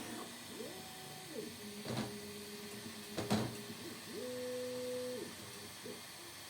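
Bambu Lab A1 3D printer's stepper motors whining through several moves, each tone gliding up in pitch, holding, then gliding back down. Two sharp knocks come about two and three seconds in, the second the louder.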